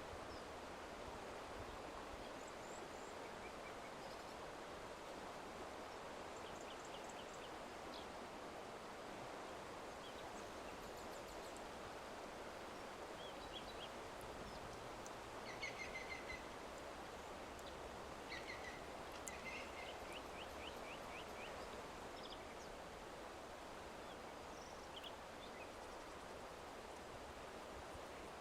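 Faint outdoor ambience: a steady low hiss with scattered short bird chirps and calls. There is a quick run of repeated calls about halfway through and another a few seconds later.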